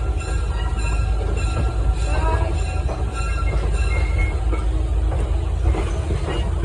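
Train rolling along the track: a steady low rumble from the cars, with thin, steady high-pitched wheel squeal above it.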